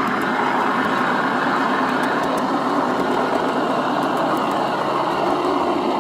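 ESU LokSound decoder in a G scale model locomotive playing a GE Dash-9 diesel engine sound through its speaker, running steadily, with a faint whine that slowly drops in pitch.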